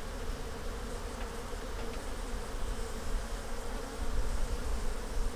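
Honeybees humming around an open hive, a steady drone from many bees in flight.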